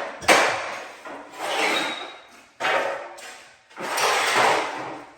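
Hand tool scraping across a tiled floor in four long strokes about a second apart, each starting sharply and fading.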